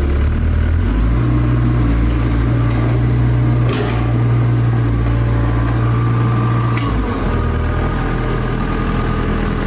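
A large engine running steadily, its speed stepping up about a second in and dropping back around seven seconds.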